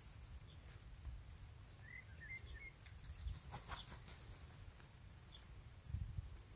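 Faint outdoor quiet with a low rumble on the microphone, a brief faint bird twitter about two seconds in, and a few soft rustles or clicks.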